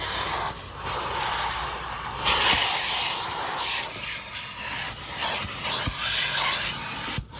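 Car wash vacuum sucking through a hose tool, its rushing noise rising and falling as the nozzle moves over and into spots in the car, with a few light knocks.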